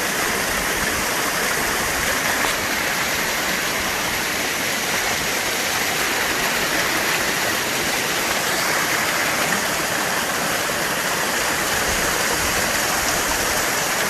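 Small waterfall on a mountain stream, with the water rushing and splashing in a steady, unbroken wash.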